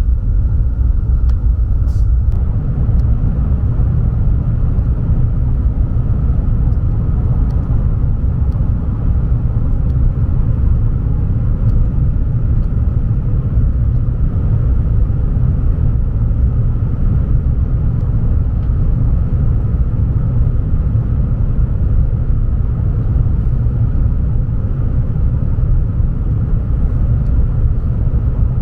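Renfe Avant high-speed train running, a steady loud low rumble heard from inside the carriage, with a faint steady hum above it.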